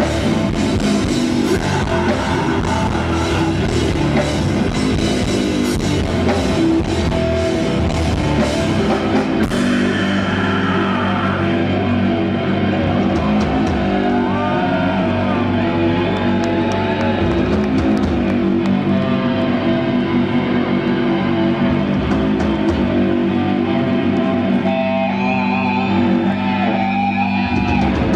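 Live rock band playing loudly: electric guitars, bass and drum kit. About ten seconds in, the dense drum hits thin out and held guitar chords carry on, with bending lead lines above them.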